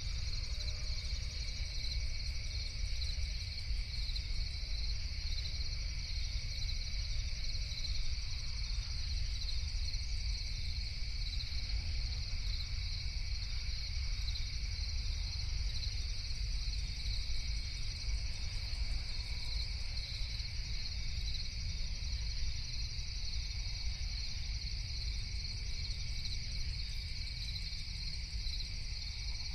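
Night chorus of crickets: a steady, high-pitched chirping that never breaks, with a low rumble underneath.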